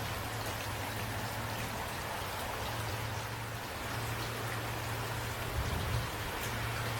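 Steady rain falling, an even hiss of drops, with a low hum underneath and a brief low thump about five and a half seconds in.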